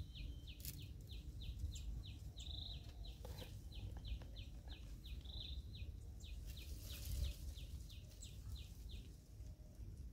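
A bird calling over and over: a rapid series of short, high chirps, about three a second, with a few longer notes mixed in, stopping about a second before the end.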